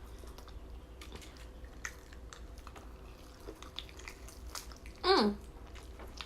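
Close-up chewing and wet mouth clicks of someone eating fried chicken dipped in cheese sauce. About five seconds in comes one short vocal sound that falls in pitch.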